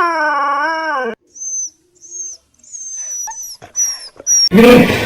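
A dog's drawn-out wailing howl, ending about a second in, followed by a string of short, high, falling chirps, then a loud, rough call from another animal near the end.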